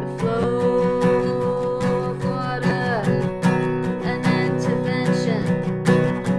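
Music: acoustic guitar strummed in a steady rhythm, with a held melody line that slides down in pitch about three seconds in.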